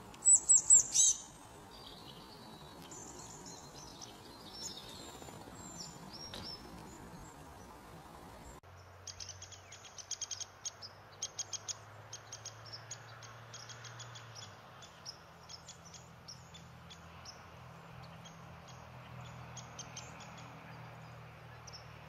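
Small birds calling, with a burst of loud, high, rapid chirps near the start and softer calls after it. About eight seconds in the sound changes abruptly to a long run of short, sharp high chips and ticks over a faint low steady hum.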